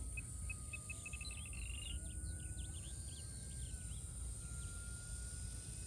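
A songbird singing: a run of short whistled notes that speeds up into a trill, followed by a scatter of quick chirps. Under it runs the faint, steady whine of the flying RC plane's electric motor, drifting slowly in pitch.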